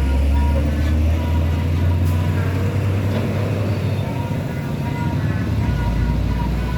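Heavy truck's diesel engine rumbling close by on the road, steadiest and loudest in the first half and easing a little after the middle.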